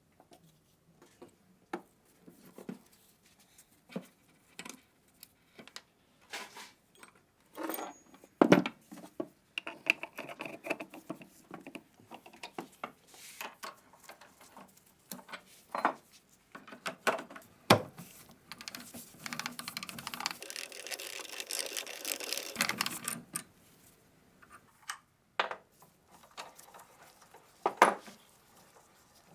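Metal gun parts being handled during a machine-gun rebuild: scattered clicks, clinks and knocks, with a few seconds of steady scraping about two-thirds of the way in.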